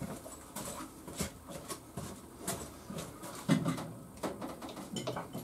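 Scattered light clicks and knocks of tools and parts being handled, with one louder knock about three and a half seconds in.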